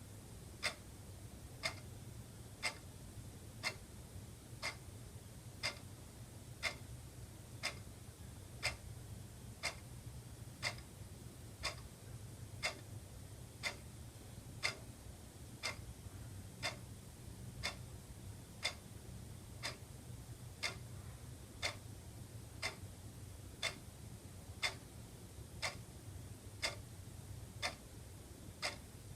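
Wall clock ticking steadily, one sharp tick each second, over a faint steady low hum.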